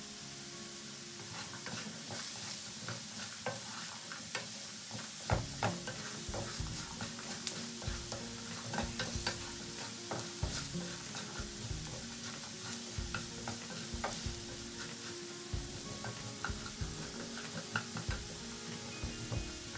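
Diced potatoes sizzling in oil in a nonstick frying pan, stirred with a wooden spatula that knocks and scrapes against the pan; the stirring gets busier about five seconds in.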